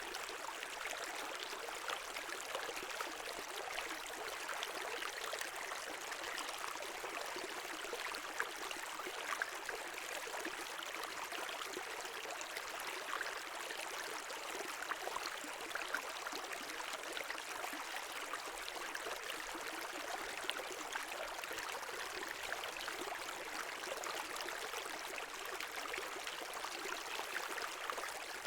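Small brook flowing and babbling over stones: a steady, even rush of water with fine splashing detail and little low rumble.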